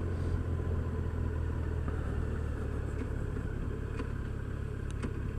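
2015 Yamaha FJR1300's inline-four engine running steadily under the rider, a low even drone.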